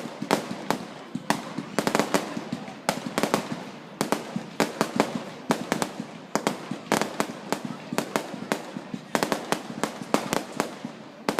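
Fireworks display: rapid volleys of sharp bangs and cracks, coming in dense clusters every second or two, over a steady background din.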